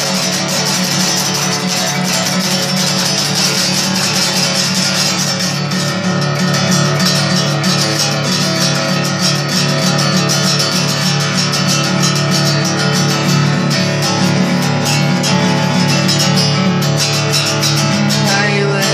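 Acoustic guitar strummed continuously and rapidly, with no singing.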